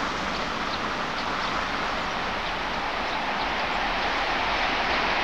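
Steady rolling noise of an approaching EP10 electric locomotive and its passenger train, still in the distance, growing slightly louder near the end. A few faint high chirps sound over it.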